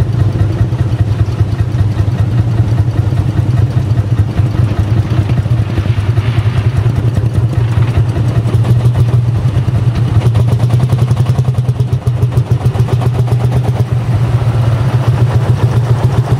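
Old tractor engine running steadily and loudly close by, with a rapid, even firing pulse.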